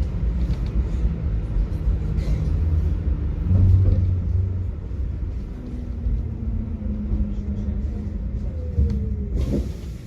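Tram running on its rails: a low rumble with a steady motor whine and scattered clicks. Near the end the whine slides down in pitch as the tram slows, and a short hiss follows.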